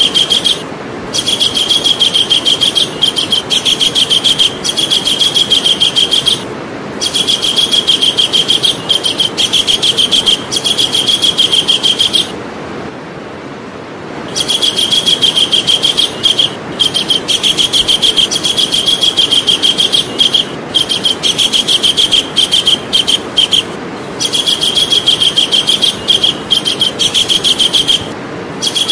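Javan kingfisher calling: rapid runs of sharp, high repeated notes lasting a few seconds each, broken by short gaps, with a longer pause about halfway through. A steady background hiss runs under the calls.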